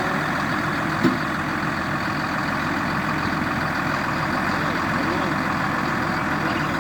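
Heavy diesel engine running steadily, with a single sharp knock about a second in.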